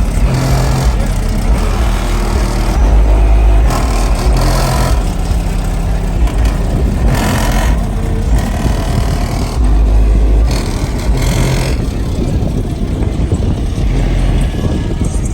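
Loud, deep bass notes from a car sound system playing music, cutting in and out in blocks, over rumble and hiss.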